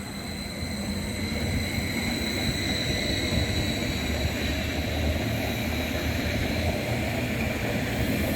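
Train approaching, its low rumble growing louder under several steady high-pitched whining tones.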